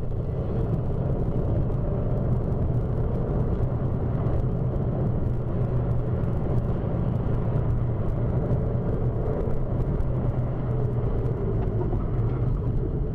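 Car engine and tyre noise heard from inside a moving car, a steady low hum with road rumble.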